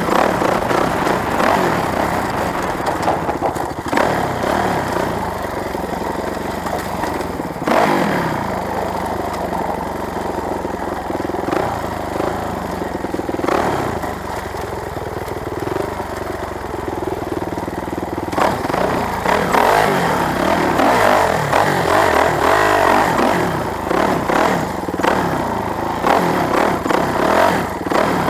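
Motorcycle engine running and revving, its pitch rising and falling again and again, with a few sharp knocks in between.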